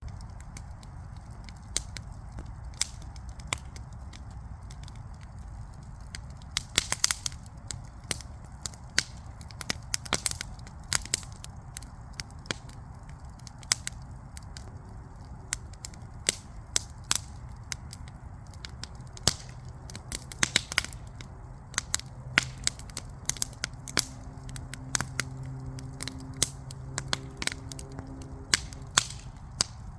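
Backyard wood fire crackling, with irregular sharp pops and snaps, some louder than others, over a steady low rumble. A faint low hum comes in about halfway through.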